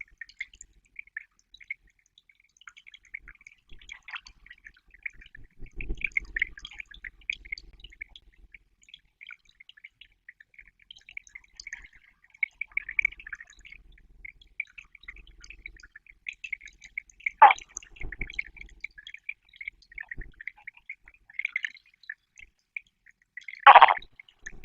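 Pond frogs croaking in a continuous, irregular rasping chorus, with some water disturbance. Two louder short calls stand out, one about two-thirds through and one near the end.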